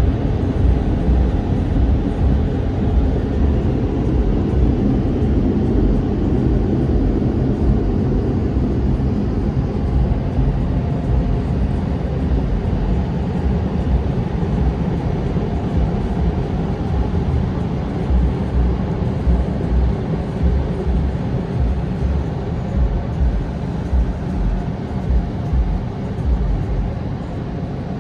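Car wash machinery working over a car, heard from inside the cabin: a loud, steady, low rumble with an uneven thumping underneath.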